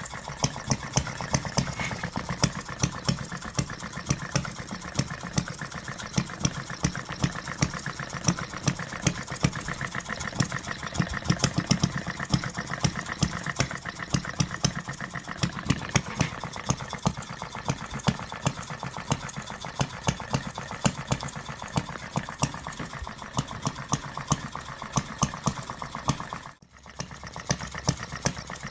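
1/8-scale model Reid two-stroke oil-field engine running on propane, firing steadily with sharp regular pops after its ignition timing was retarded. The sound drops out briefly near the end.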